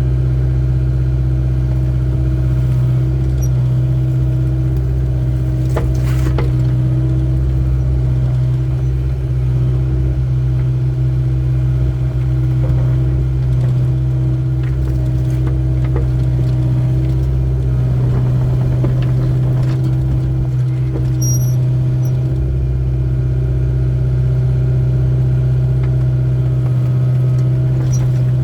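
Excavator diesel engine running steadily with a loud, even low hum, with a few faint clicks over it.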